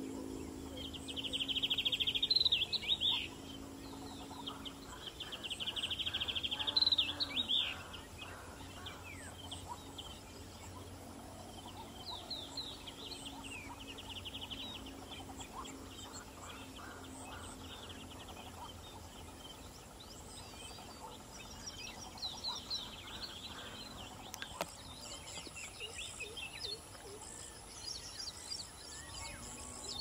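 Small birds calling in a flock: two loud, rapid trills in the first eight seconds, then scattered high chirps and short trills.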